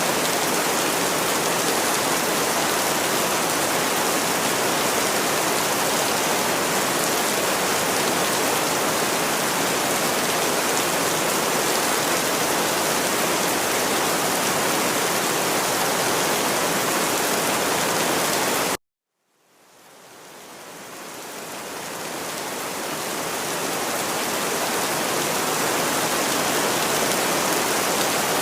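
Steady heavy rain, an even hiss of water. About two-thirds of the way through it cuts off suddenly for half a second, then fades back up to full strength over several seconds.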